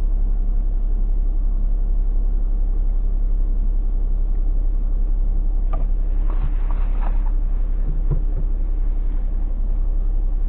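Suzuki Alto 800's small three-cylinder petrol engine idling steadily with a low rumble, with a few light clicks and knocks about six to eight seconds in.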